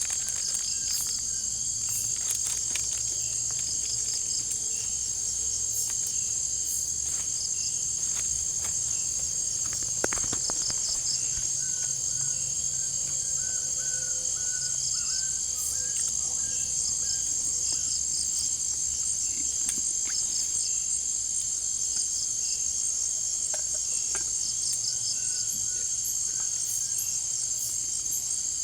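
Jungle insect chorus: a steady high-pitched trill, with other insects calling in short repeated pulses at lower pitches. Scattered faint clicks, and one sharper click about ten seconds in.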